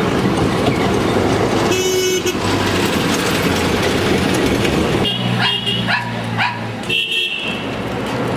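Darjeeling Himalayan Railway narrow-gauge steam train running with a steady loud rattle and rumble. About five seconds in the sound changes abruptly to a lower steady hum with a few short high horn toots.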